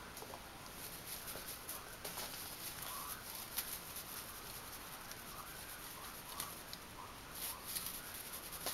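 Kittens playing in a small basket: faint scattered clicks and scratching as they scrabble and pull at it. Faint voices from a television run behind.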